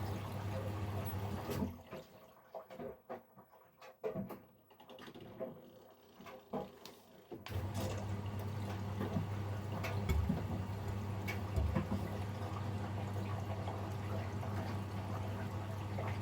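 Miele Professional PW 6065 washing machine taking in water during load detection: a steady hum with water running into the drum. About two seconds in it stops, leaving a few seconds of quiet splashing and knocks, then starts again.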